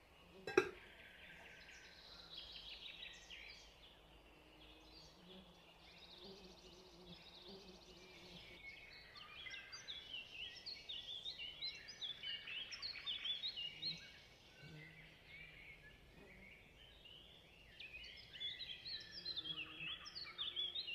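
Small birds chirping and singing faintly, with quick gliding notes that come and go in busier spells. There is one sharp tap about half a second in.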